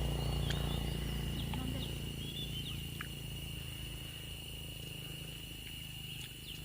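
Outdoor ambience: a steady high-pitched insect drone, with scattered short bird chirps over a low rumble that fades during the first few seconds.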